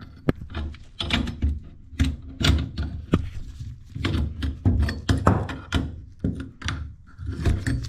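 Tools and metal parts knocking and clunking against a sink during a faucet installation: a run of irregular thunks and clicks.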